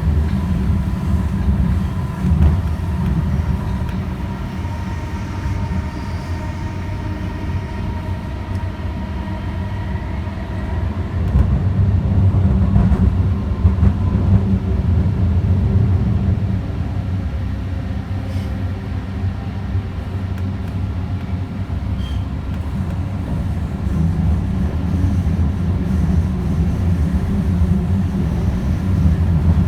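Light-rail train running between stations, heard from inside the car: a steady low rumble of wheels on rail with faint thin tones above it. The rumble swells a little about a third of the way in and again near the end.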